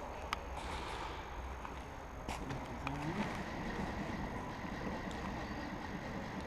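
Steady low rumble of wind and movement on a body-worn microphone, with two sharp clicks, one just after the start and another a little past two seconds in.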